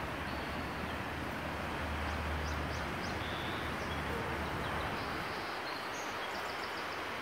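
Outdoor nature ambience: a steady rushing noise with a few short, faint, high bird chirps scattered through it. A low rumble underneath fades out about five seconds in.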